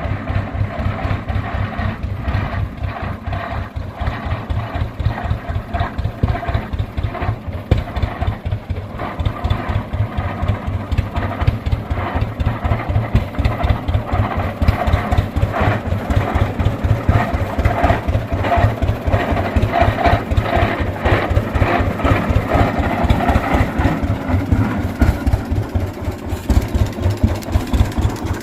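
1922 Rumely OilPull 16-30H tractor's two-cylinder engine running after being revived, a steady rapid beat of firing pulses.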